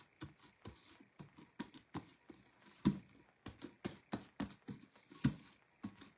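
Irregular light taps and knocks of fingers on a plastic dishwasher-pod container, a few louder knocks about three and five seconds in, as its Mod Podge coat is tested to see whether it has dried.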